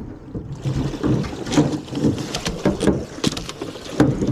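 An alligator thrashing at the side of a small boat: water splashing, with repeated sharp knocks against the hull.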